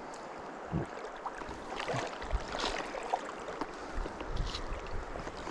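Stream water running and splashing around a wader's legs, with irregular small splashes and some wind rumble on the microphone.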